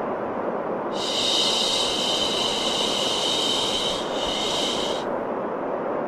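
Steady white noise for baby sleep, a dull even rush. A higher hiss layered over it comes in about a second in, dips briefly, and stops about a second before the end.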